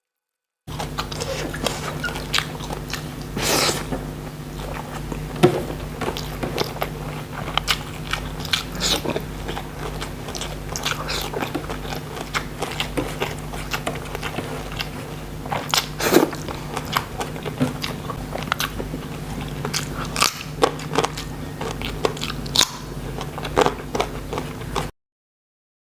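Close-miked eating: crisp crunching bites and wet chewing, irregular and continuous, over a steady low electrical hum. The sound cuts in about half a second in and drops out abruptly about a second before the end.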